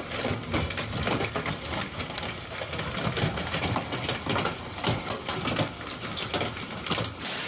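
Dense, irregular clicking and rattling that keeps up for several seconds, then cuts off suddenly near the end, giving way to an even hiss.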